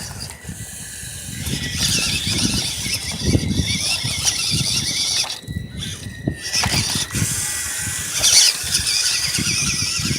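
Small electric RC truck's motor and gears whining, the pitch wavering as the throttle changes, with a rough crunching underneath; it cuts out briefly twice around the middle.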